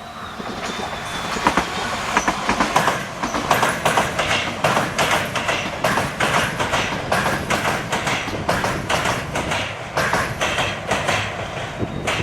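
Tobu Noda Line electric commuter train passing close by, its wheels knocking in quick, uneven runs over the rail joints. The sound builds over the first couple of seconds and then stays loud.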